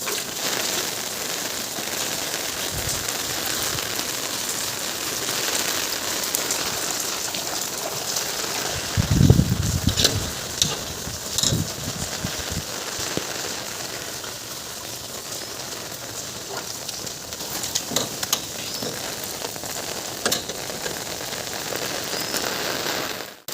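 Steady rain falling and splashing on surfaces, with scattered drips ticking. A low rumble swells briefly about nine seconds in.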